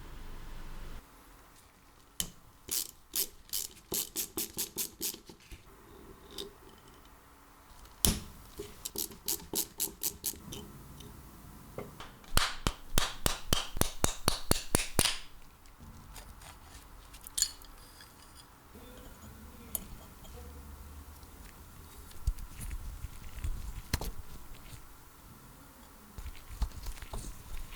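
Hand tools working on an old electric drill during disassembly, making quick runs of sharp mechanical clicks several times, with single knocks between the runs.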